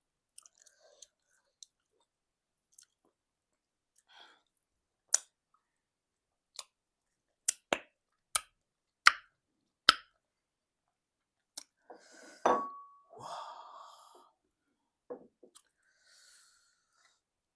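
Close-miked eating of egusi soup and semolina: wet chewing and sharp lip smacks, coming as separate clicks with pauses between them, with a longer, louder noise about twelve seconds in.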